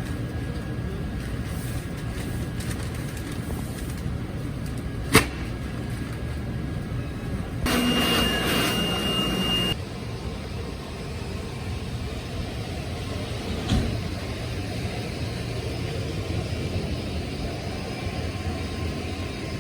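Steady low rumble of a moving train heard from inside the carriage. About eight seconds in there is a louder two-second stretch carrying a steady high tone, and there are single clicks around five and fourteen seconds in.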